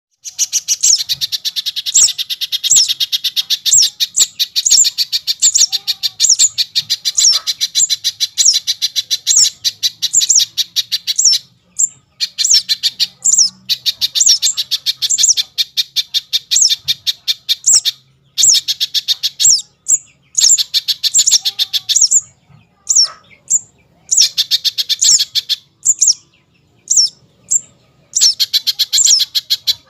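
Small songbird chirping: rapid twittering trills with a sharper high note recurring about every half second, in bouts broken by short pauses.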